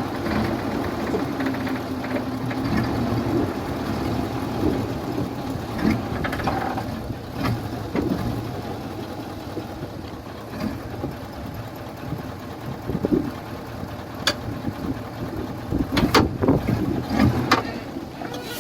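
Heavy construction machine's diesel engine running steadily, with scattered sharp metallic clanks and knocks that bunch together near the end.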